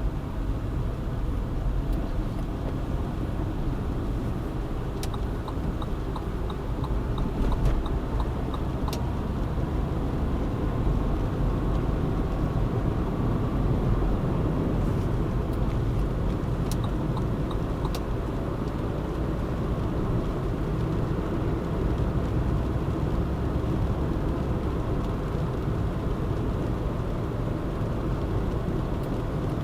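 Car driving along a city road: a steady rumble of engine and tyre noise. Two short runs of light, quick ticks come through, about five seconds in and again around fifteen seconds in.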